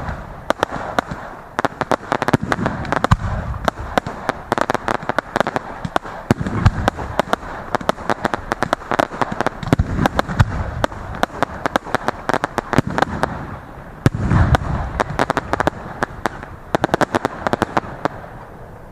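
Aerial fireworks going off in quick succession: dense crackling reports with heavier booming bursts every few seconds, thinning out near the end.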